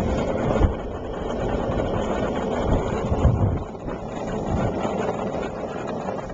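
Wind buffeting the camcorder microphone over a steady low rumble, with a couple of short low thumps, one just under a second in and one past the three-second mark.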